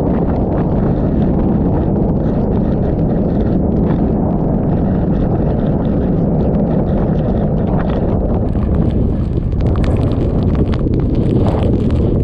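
Typhoon eyewall wind buffeting the microphone, with torrential rain and spray lashing down. A rattle of sharp taps and crackles grows more frequent from about two-thirds of the way through.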